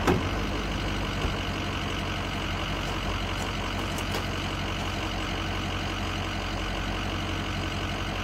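Ford F-350 dually pickup's engine idling steadily, with a short knock right at the start.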